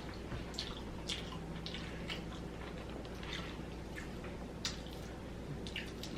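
Close-miked chewing and biting of fried chicken and fries: irregular wet, crackly mouth sounds about every half second, over a steady low hum.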